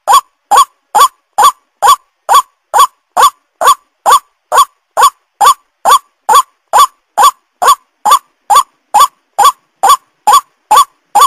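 White-breasted waterhen (ruak-ruak) calling: a short upswept note repeated evenly about twice a second, without a break.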